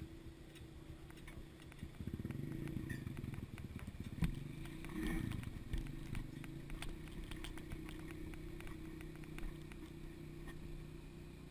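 Dirt bike engine running, louder from about two seconds in, with a surge in revs near the middle, along with scattered clicks and knocks.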